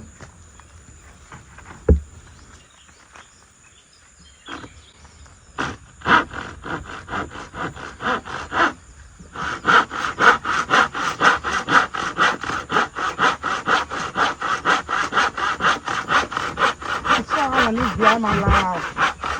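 Handsaw cutting wood in steady back-and-forth strokes, about three or four a second. The sawing starts a few seconds in, pauses briefly, then runs on evenly, with a single knock before it begins.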